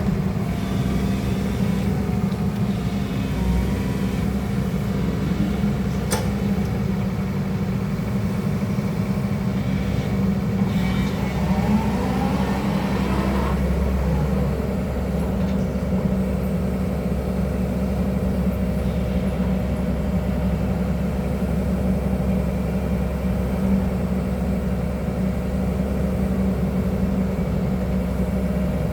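Excavator's diesel engine running steadily under work, with a brief whine rising and falling about halfway through and a single click near the start.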